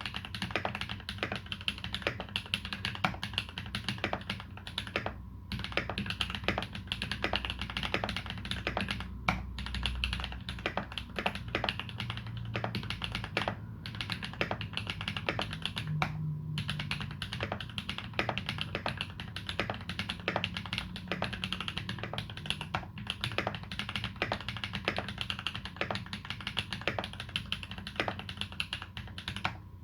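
Continuous typing on a TX EO87 tenkeyless custom mechanical keyboard with lubed Holy Panda tactile switches and GMK Dolch keycaps: a fast, uneven run of keystroke clicks and clacks, broken by a few short pauses.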